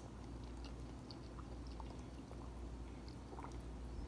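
Faint chewing of fried chicken, with scattered soft mouth clicks, over a steady low hum.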